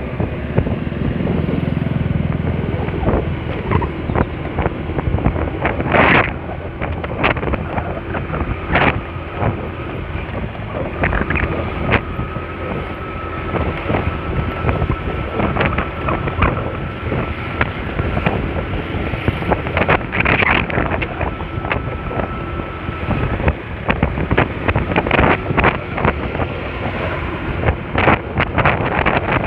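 Wind rushing and buffeting over the microphone while riding a Honda Spacy scooter, the engine running steadily underneath. A thin steady whine sits over it for about twelve seconds in the middle, with sharp gusts scattered throughout.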